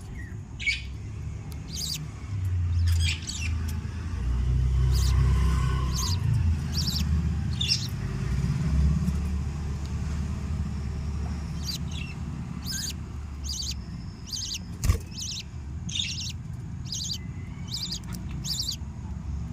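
Budgerigars chirping: short high calls repeated at about two a second, over a low rumble. A single sharp click about 15 seconds in.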